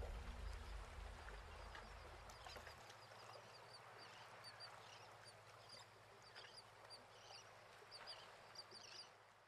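Music fading out over the first three seconds, then faint, repeated high chirps of small birds.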